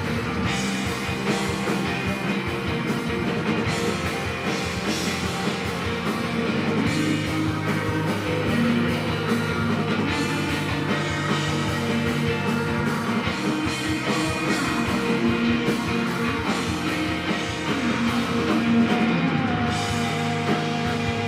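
A rock band playing a song live, with guitar, loud and continuous.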